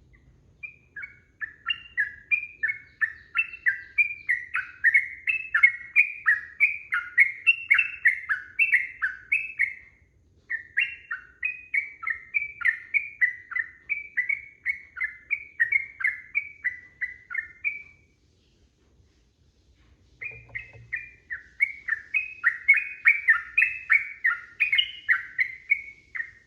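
Yellow-vented bulbul (trucukan) singing a long, rapid chattering song: quick, bubbly notes several times a second, in three long runs separated by brief pauses.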